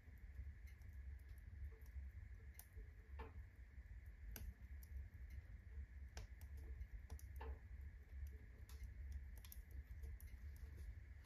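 Wood fire in a fireplace crackling faintly, with scattered irregular snaps and pops over a steady low hum, as the stacked firewood burns up during the ignition phase.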